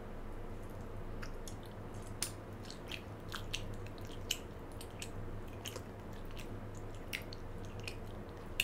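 Close-miked open-mouthed chewing of a chocolate-coated marshmallow bear: irregular wet clicks and smacks of lips, tongue and sticky marshmallow, starting about a second in, over a faint steady hum.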